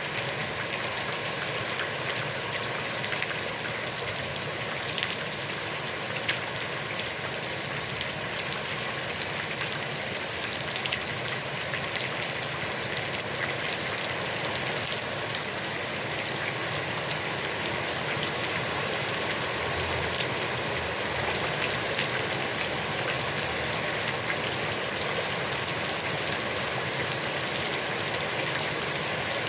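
Heavy rain falling steadily on a pond, a dense even hiss with many individual drops pattering on the water.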